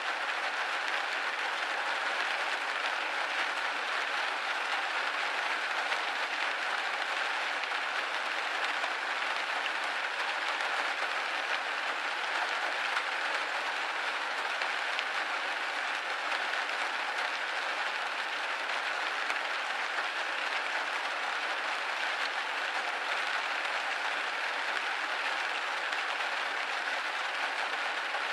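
Steady rain hitting a window: a dense, even patter with no single drops standing out.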